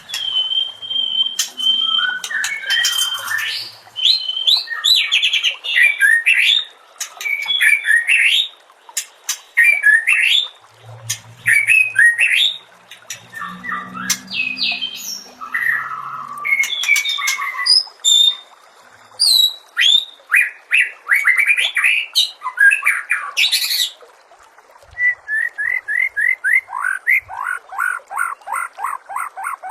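White-rumped shama (murai batu) singing a loud, varied song of whistled phrases, sweeps and mimicked notes. It opens with a held whistle and ends with a long run of fast repeated notes.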